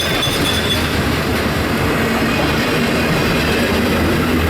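Florida East Coast Railway train running by with a loud, steady rumble of locomotive and rolling cars on the rails. A thin, high wheel squeal fades out within the first second.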